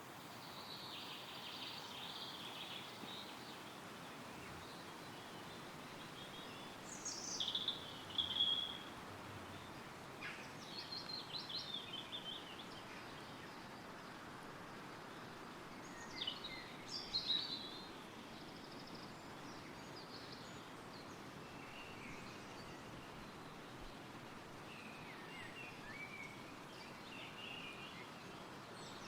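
Steady wind rustling through woodland trees with songbirds singing: short bird phrases stand out about 7 s, 10 s and 16 s in, with fainter calls near the start and towards the end.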